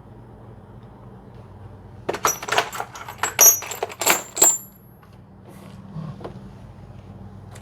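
Small steel hand tools clinking and rattling against each other in a quick run of bright, ringing clinks, like tools being sorted through by hand. A steady low machine-shop hum runs underneath.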